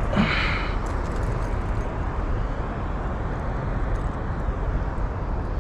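Steady rushing of river current, an even wash of water noise, with a brief brighter noise right at the start.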